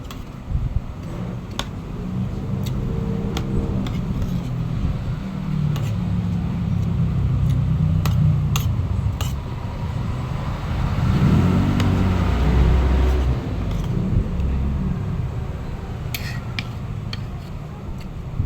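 Steady low engine rumble of road traffic, with one vehicle passing louder about halfway through, and a few light clicks of utensils on dishes.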